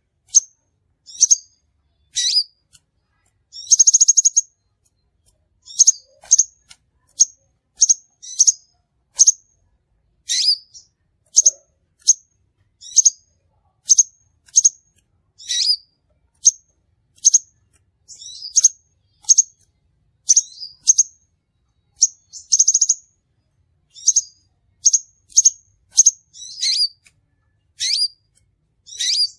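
Crimson sunbird calls used as a bird-trapping lure: sharp, high-pitched chirps repeated about one or two a second, broken twice by a brief buzzy trill.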